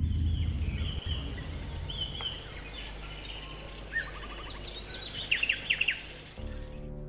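Birds chirping and twittering over a low steady rumble, loudest in a quick run of short downward-sweeping chirps about two-thirds of the way through. Soft plucked-string music comes in near the end.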